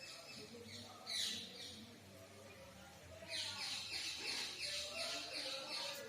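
A bird calling: a few short falling notes about a second in, then a fast run of repeated falling notes, about four or five a second, from about three seconds in.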